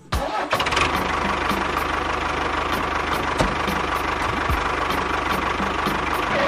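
Small motor of a miniature DIY tractor running steadily, with a fast fine ticking rattle; it starts abruptly and cuts off near the end.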